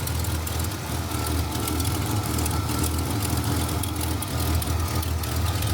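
Oldsmobile Delta 88's old 350 Rocket V8 idling through a new dual exhaust, a steady low rumble with a little popping and farting in the exhaust note; the engine is worn and not yet freshened up.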